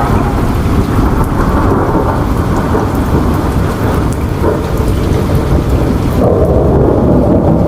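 Rain falling under a long, low rumble of thunder.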